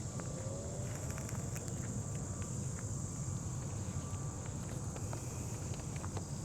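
Steady high-pitched insect chorus over a low steady rumble, with a few faint clicks.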